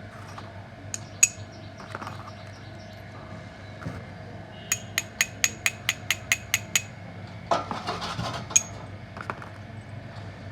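Metal tool tapping on metal: a couple of single taps, then a quick run of about ten sharp ringing taps at about five a second, followed by a short metallic scraping rattle and one last tap.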